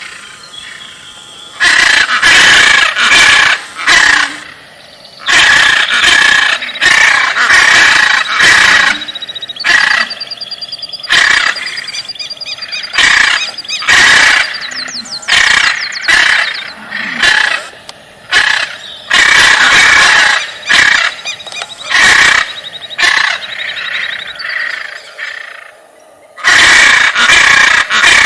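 Loud animal calls repeating every second or two, with quieter gaps between.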